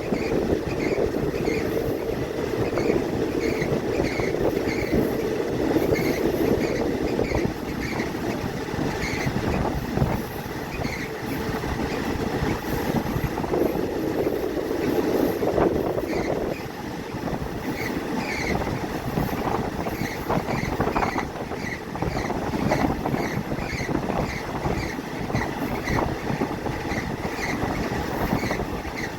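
Passenger train running along the track, heard from on board: a steady rolling rumble of the carriage's wheels on the rails.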